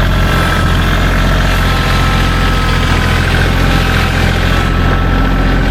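A heavy engine idling steadily, a low hum with a steady high whine over it.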